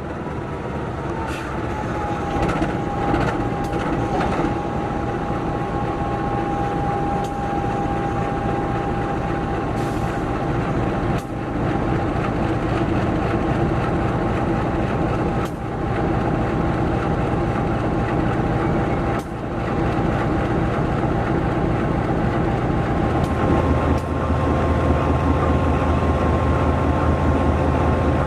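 A diesel locomotive-hauled passenger train running: a steady engine and wheel rumble that grows louder over the first few seconds, with a whine that drops slightly in pitch early on and then holds steady. A few sharp clicks sound, and the low hum strengthens about three-quarters of the way through.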